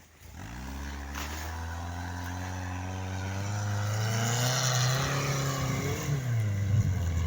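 Toyota 1NZ-FE 1.5-litre inline-four engine of a homemade tracked-style all-terrain vehicle working hard under load as it climbs a steep, deep-snow slope. Its revs rise slowly over several seconds, dip briefly about six seconds in, then pick up again.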